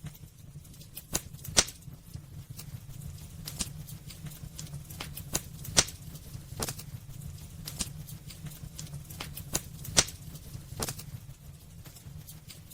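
Wood fire burning in a fireplace: irregular sharp crackles and pops from the burning logs, a few louder snaps standing out, over a steady low rumble of the flames.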